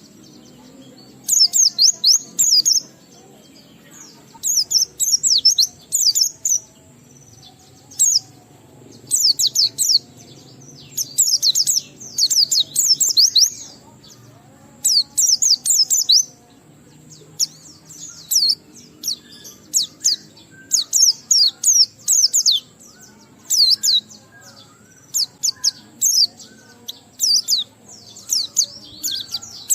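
White-eye (pleci) singing its long 'ngalas' song: bursts of rapid, high twittering notes, each a second or two long, repeating every couple of seconds.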